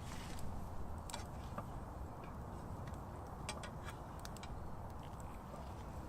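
Quiet outdoor background: a steady low rumble with a handful of short, sharp clicks scattered through it.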